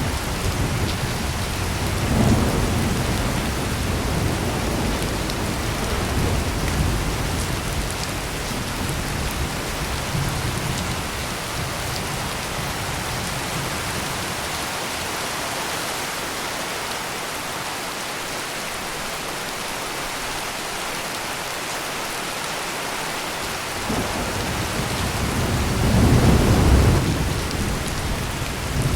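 Heavy rain pouring steadily, with rolling thunder rumbling in the first several seconds and a louder thunder rumble swelling about 25 seconds in.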